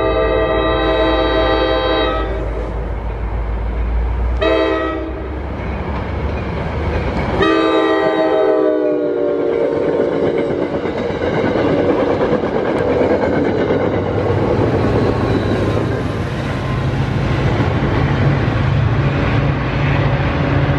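Diesel locomotive air horn sounding three blasts: a long one ending about two seconds in, a short one, then a longer one that drops in pitch as the locomotive passes. The train then rolls by with a steady rumble and wheel clatter on the rails.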